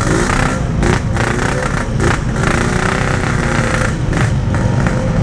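Yamaha RX-King 135cc two-stroke single running steadily under light throttle while moving, its clutch held half-engaged to keep it from stalling. The engine is down on power, which the rider puts down to broken reed-valve petals.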